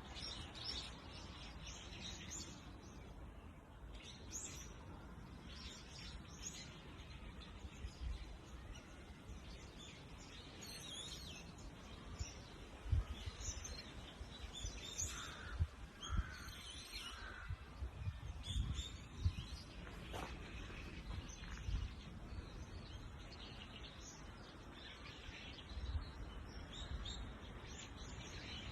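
Birds chirping outdoors, many short high calls scattered throughout, faint, over a low rumble with occasional low bumps.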